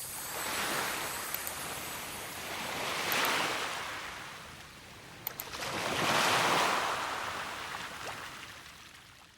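Rushing water noise that swells and ebbs in slow surges about every three seconds, like surf, fading out near the end.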